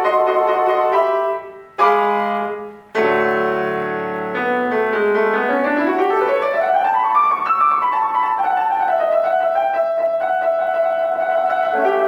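Solo piano playing classical music: chords broken off twice in the first few seconds, then a fast run that climbs and falls back, settling into held notes.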